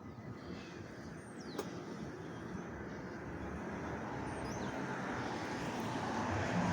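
Street traffic: a passing vehicle's steady noise, growing louder as it approaches.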